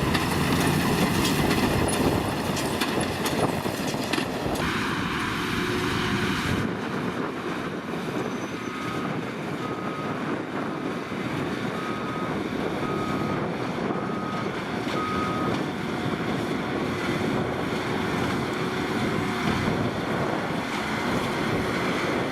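Tractors and hay balers running, a steady mechanical noise with a clatter. In the middle come six short, high electronic beeps about a second apart.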